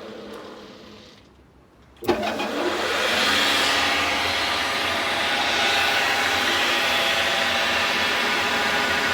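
Lathe motor and spindle running down and going quiet, then switched on with a click about two seconds in and running up to a steady whining hum.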